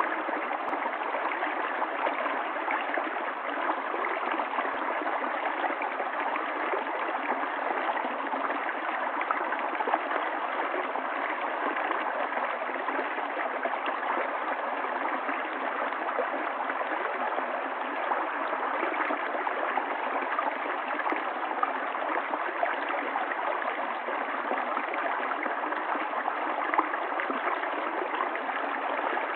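Stream water running steadily, an even rushing with no deep rumble.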